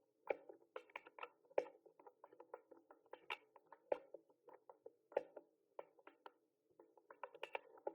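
Typing on a mechanical keyboard: quick irregular key clicks and clacks, several a second, with a few louder strokes standing out.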